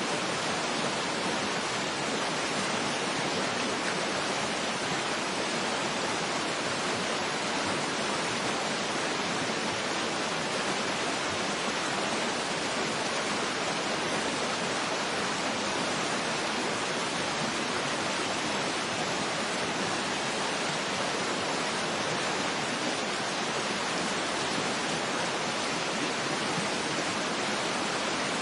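Waterfall rushing steadily, an even unbroken hiss with little low rumble.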